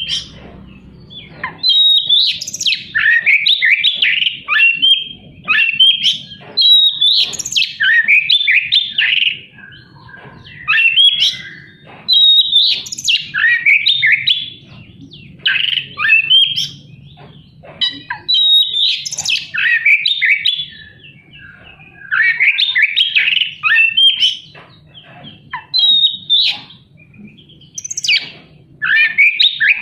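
Oriental magpie-robin (kacer) singing in loud, varied bursts of harsh, rapid phrases full of mimicked notes, with short pauses between the bursts.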